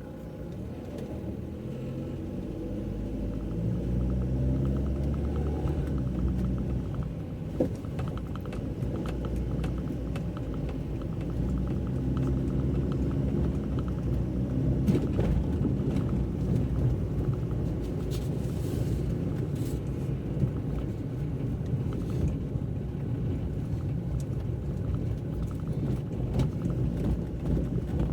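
A car driving, heard as a low engine and road rumble. It grows louder over the first few seconds while the engine pitch rises as the car gathers speed, then settles into a steady drone with a few small clicks.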